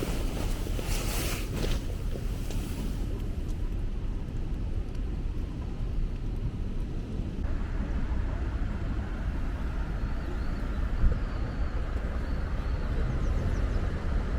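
Wind rumbling and buffeting on the microphone, a steady low noise with no distinct events; a lighter hiss joins about halfway through.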